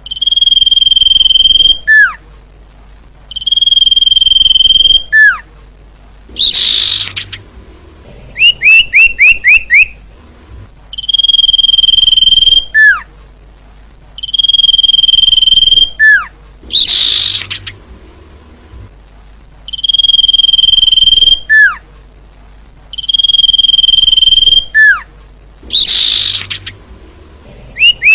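Common iora singing in a repeated phrase: a long, steady high whistle, a short falling note, a harsh buzzy note, then a quick run of about five short chirps. The phrase comes round again about every eight seconds.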